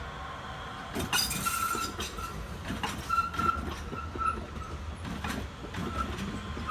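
RBS metre-gauge electric commuter train passing close by, its wheels clattering over rail joints and points, with short high squeals that come and go.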